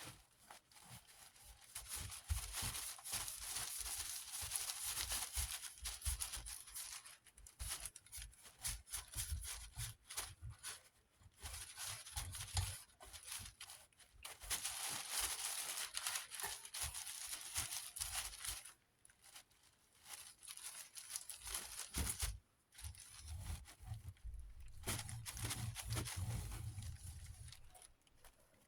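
Scrubbing and rubbing on the wire rear guard of a small desk fan, in uneven strokes of rough hissy noise with soft bumps and short pauses between them.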